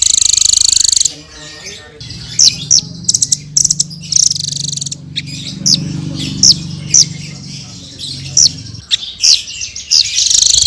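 Blue-crowned hanging parrot (srindit) calling: a loud, buzzy high trill at the start and again near the end, with sharp, high chirps repeated in between. A low drone sits under the chirps through the middle.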